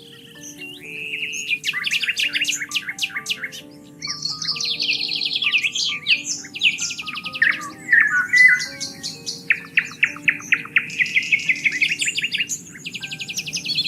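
Songbirds singing in rapid trills and chirps, one burst after another with short gaps, over soft background music of slow, held low notes.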